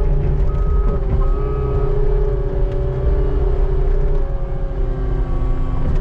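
Skid steer running under load, a steady engine rumble with a constant whine over it. A higher tone comes and goes several times.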